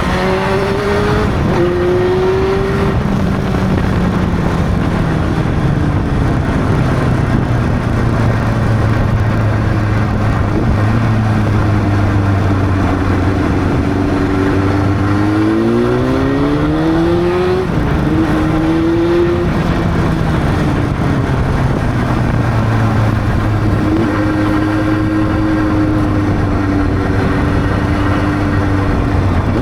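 Honda CB600's inline-four engine pulling the motorcycle along, its pitch rising under acceleration about halfway through, dropping sharply at a gear change and rising again before settling back to a steady cruise. A constant rush of wind and road noise runs under it.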